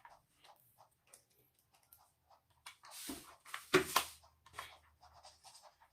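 Screws being driven by hand into a metal washing-machine stand: faint scratching and clicking of a screwdriver, with a louder rustle and a knock about three to four seconds in.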